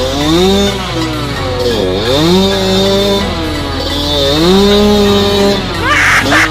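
Trail motorcycle engine revving hard off-road, its pitch climbing and holding, then dropping away about every two seconds as the throttle is worked. A short rush of noise comes near the end.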